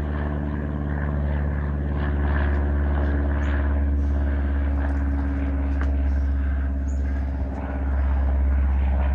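Airplane flying overhead: a steady engine drone with a low rumble, holding level throughout.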